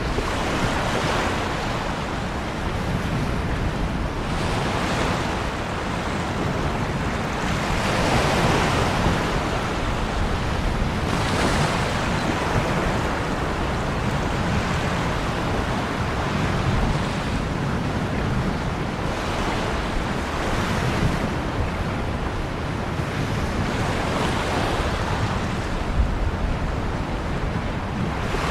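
Ocean surf: waves breaking one after another in a continuous rush that swells about every three to four seconds.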